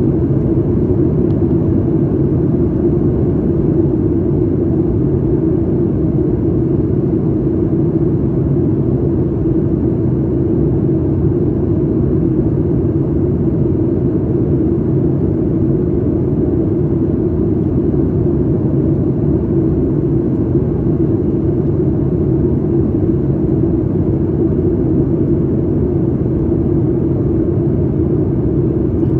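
Steady cabin rumble of a Boeing 737 MAX 8 in flight: its CFM LEAP-1B engines and the airflow over the fuselage, heard from inside the passenger cabin, with a constant low drone.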